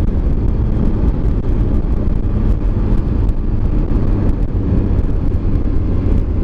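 Steady wind rush on a helmet microphone, with a Triumph Tiger 800 XRT's three-cylinder engine running at an even speed underneath, heard while riding.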